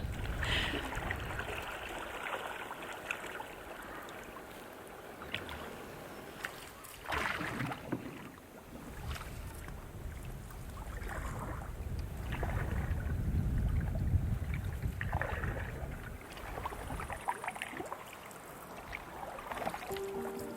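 Canoe paddle strokes in lake water, swishing every couple of seconds, with wind rumbling on the microphone.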